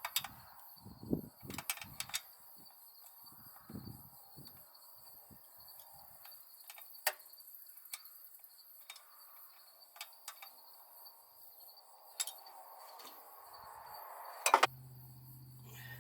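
Scattered clicks, clinks and knocks of hand tools as a fuel line is fastened at a carburetor, over a steady chirping of crickets. Near the end comes a loud knock, then a steady low hum begins.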